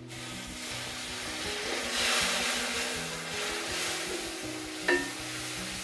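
Water added to hot oil with browned onions and turmeric-chilli paste, sizzling in an aluminium karahi; the hiss starts suddenly, swells about two seconds in, then settles. A wooden spatula knocks against the pan once near the end.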